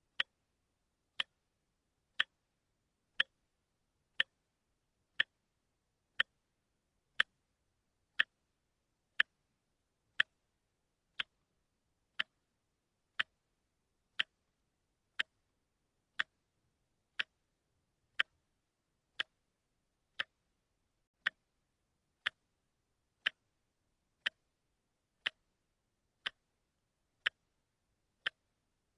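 Watch ticking steadily, one sharp tick about every second, with silence between the ticks.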